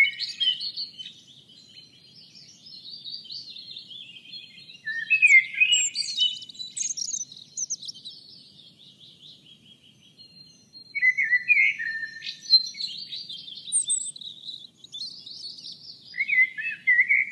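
Songbirds chirping and trilling, several quick calls overlapping in bursts with short lulls between them.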